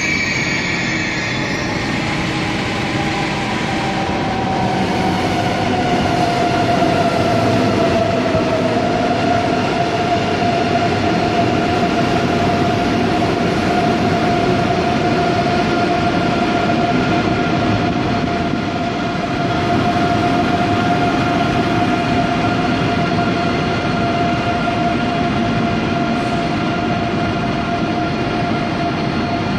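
ICE 3 high-speed electric train: steady rail rumble with an electric whine that falls in pitch over the first several seconds, then holds one steady tone.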